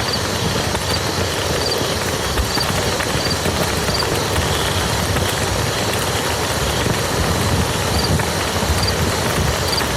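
Steady rain falling on a muddy field, a dense even patter. A faint short high chirp repeats about once a second, dropping out for a few seconds in the middle.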